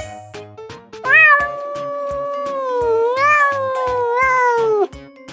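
Domestic cat giving one long, drawn-out meow of about four seconds, starting about a second in, its pitch wavering down and up before it trails off.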